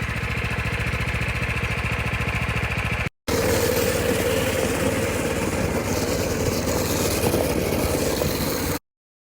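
Predator 212 single-cylinder four-stroke engine on a small motorcycle running steadily, in two clips split by a brief cut about three seconds in; the sound stops abruptly near the end.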